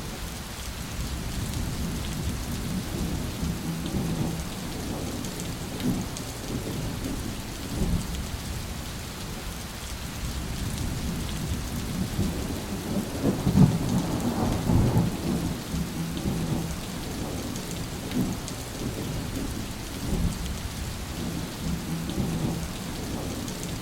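Steady rain falling, with rolling thunder rumbling low beneath it that swells loudest about halfway through.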